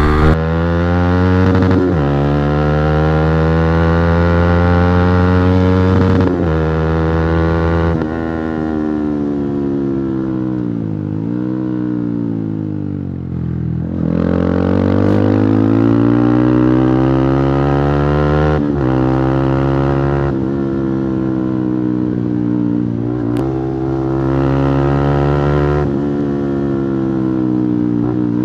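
Yamaha R15 V3's single-cylinder engine through an Akrapovic exhaust with the dB killer removed, ridden hard up through the gears: the pitch climbs in each gear and drops at each upshift. About halfway it slows with the pitch falling, then pulls up through the gears again.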